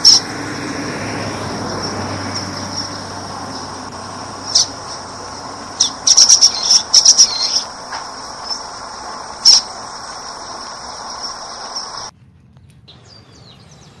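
Steady high insect buzz with short, sharp bird chirps: one at the start, a few single ones, and a quick run about six to seven and a half seconds in, calls of common waxbills (bico-de-lacre). The recording cuts off about twelve seconds in, leaving faint hiss.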